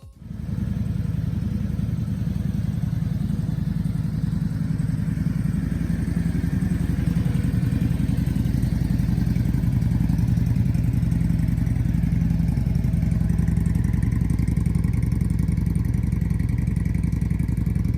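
Yamaha Drag Star Classic 400's air-cooled V-twin running steadily through a Kentec flare-cut aftermarket muffler, a deep rapid exhaust pulse without revving.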